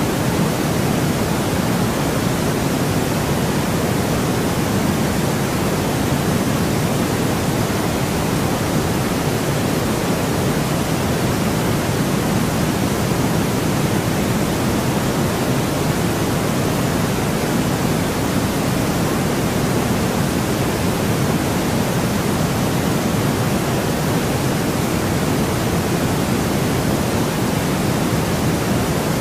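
Steady, unchanging white noise: an even hiss with a fuller low end.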